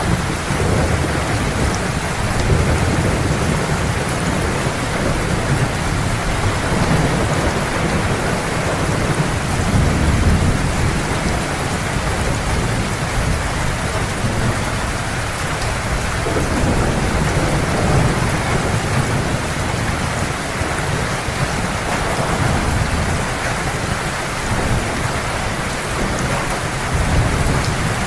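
Heavy rain pouring steadily, with thunder rumbling low in the background. The rumbles swell and fade several times, about every eight seconds.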